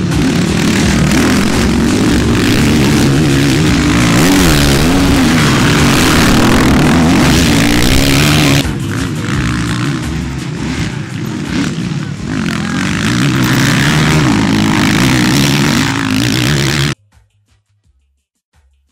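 Motocross bikes racing, several engines revving up and down over one another. The sound changes abruptly about halfway through, then cuts off suddenly shortly before the end.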